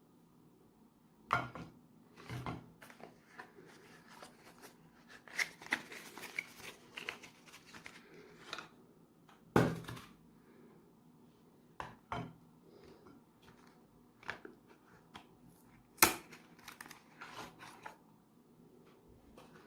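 Objects being handled in a small room: scattered knocks and clicks with some rustling and crinkling. Three sharper knocks stand out, about a second and a half, nine and a half, and sixteen seconds in.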